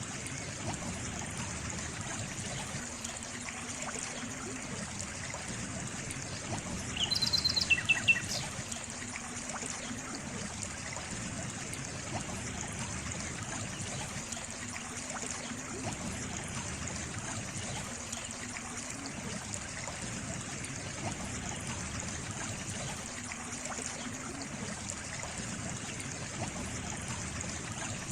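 Water trickling and running steadily, like a small stream. About seven seconds in, a brief cluster of short high chirps, stepping down in pitch, stands out above the water.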